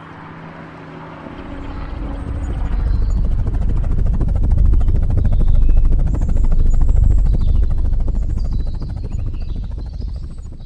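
Helicopter rotor chop, a fast steady beat of the blades that swells louder through the middle and fades away again, like a helicopter passing over.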